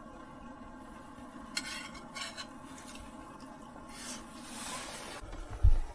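Utensils clinking on cookware twice, a short rustle, then a dull low thump near the end, over a steady low hum.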